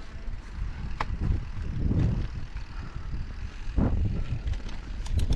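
Wind buffeting the microphone, a pulsing low rumble, with a few sharp clicks about a second in and near the end.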